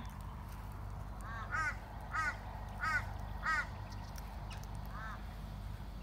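A bird calling in short, arched squawks: about six calls, some close together, with a gap after the fourth.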